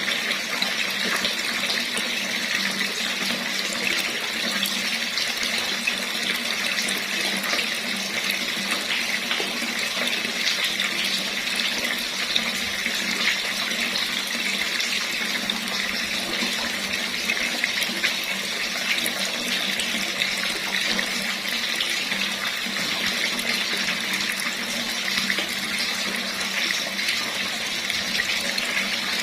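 Water running steadily from a tap, an even rushing splash that does not change.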